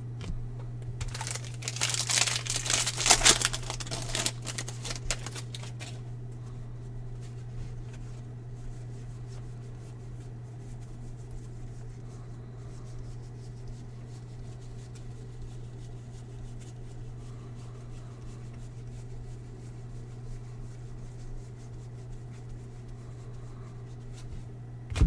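Plastic wrapper of a Topps baseball card pack being torn open and crinkled in the first few seconds. After that comes a steady low electrical hum.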